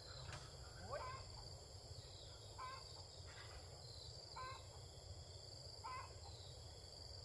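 A bird calling repeatedly, a short call about every one and a half seconds, faint over a steady low rumble.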